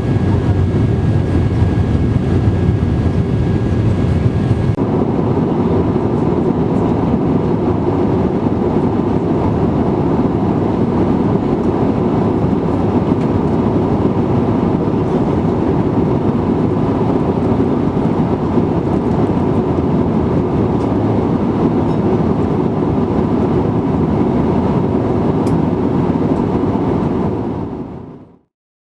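Steady rumble of engine and airflow noise inside the cabin of an Airbus A320-200. The sound shifts abruptly about five seconds in, where a thin steady whine drops away, and it fades out near the end.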